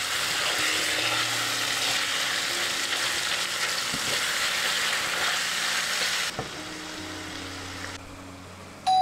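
Food frying in a hot pan, a steady sizzle that drops sharply about six seconds in and fades lower still near the end. Just before the end, a bright single ding rings out and starts to die away.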